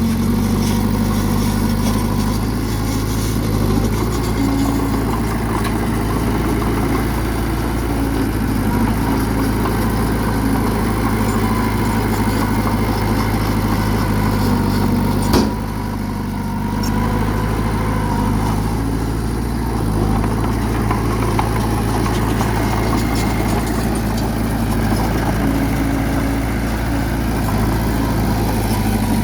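Bulldozer's diesel engine running steadily at a low, even pitch. A single sharp knock sounds about halfway through.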